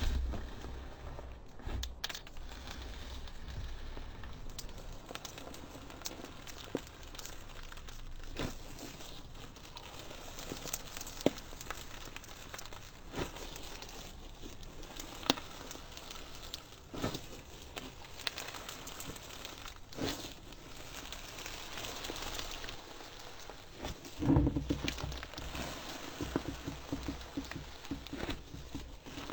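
Slime being squeezed and worked by hand, giving a steady run of small crackles and pops. A louder, fuller burst comes near the end.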